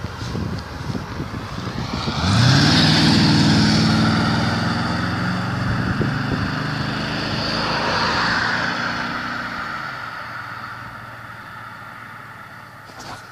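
Mercedes-Benz W108 280SE engine coming in suddenly and loudly about two seconds in, its note rising as it accelerates. It holds strong for several seconds, then fades steadily as the car moves off.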